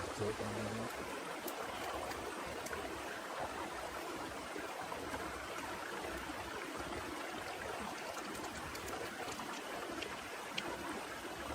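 Heavy rain falling steadily, a constant rushing hiss with a few sharp drip ticks near the end.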